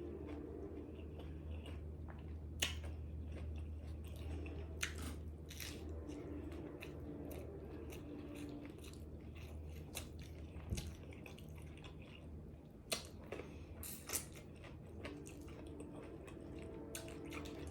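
Close-miked chewing of pizza tacos, with a few sharp crunches of crisp taco shell scattered through it.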